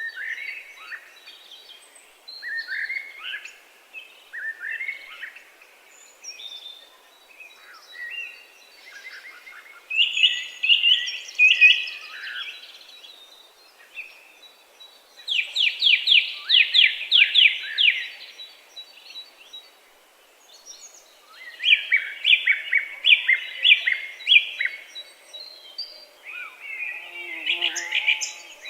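Songbirds singing: a series of short song phrases, several of them fast trills of rapidly repeated notes, with brief pauses between phrases.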